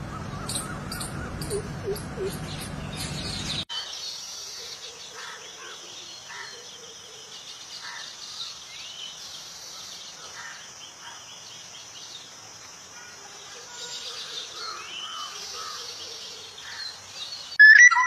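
Small birds chirping, with quick repeated chirps at first. After an abrupt cut about four seconds in come scattered calls over a steady high-pitched hiss. Just before the end a much louder whistling starts.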